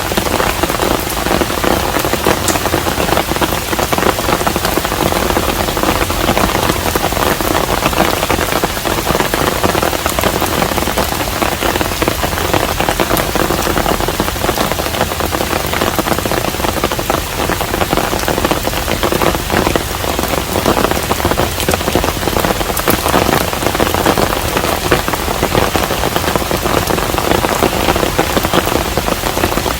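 Steady rain falling on a hanok, a traditional Korean house: a dense, even patter with individual drops ticking through it, unchanging throughout.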